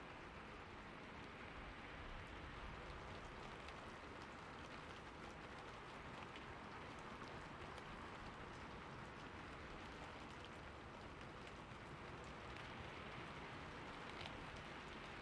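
Steady rainfall: a dense, even hiss of rain with faint scattered drop ticks.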